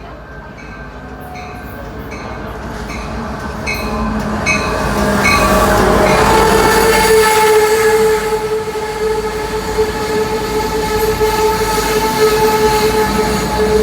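Amtrak passenger train with an F59PHI diesel locomotive approaching and passing, growing steadily louder over the first six seconds or so. A fast, even ringing repeats through the first five seconds, and from about six seconds a steady high tone holds over the train noise.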